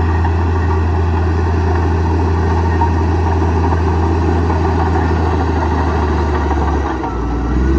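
Komatsu D58E bulldozer's diesel engine running steadily, its note dipping briefly about seven seconds in before picking up again.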